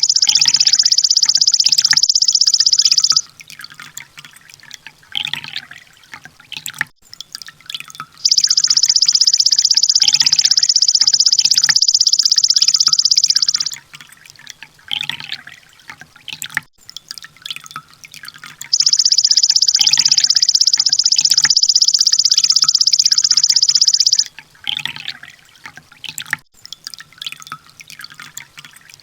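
Looped recording of a sunbird's rapid-fire trill: three long bursts of dense, high, fast ticking, each about five seconds, with softer scattered chirps in the gaps, and a fourth burst beginning at the very end.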